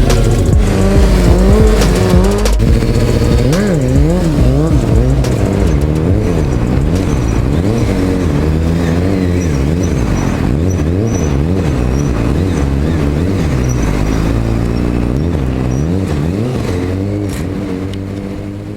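Sportbike engine being revved up and down over and over, its pitch rising and falling roughly once a second, loud throughout and easing off near the end.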